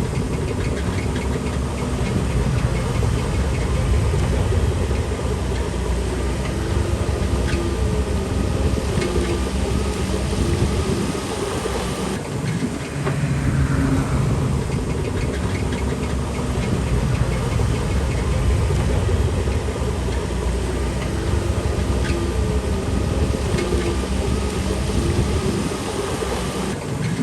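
Shantui DH17C3 PRO bulldozer's diesel engine running steadily under work, its pitch rising and falling as it pushes, with intermittent metallic clanking.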